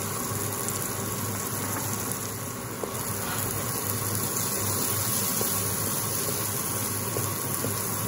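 Chopped onion, capsicum and tomato masala sizzling steadily in a non-stick wok while a wooden spatula stirs it, with a few faint scrapes, as the spices are sautéed down.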